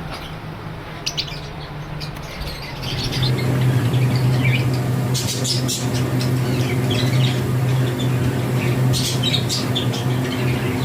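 Birds chirping and squawking in short, scattered high calls. About three seconds in a steady low mechanical hum starts and becomes the loudest sound.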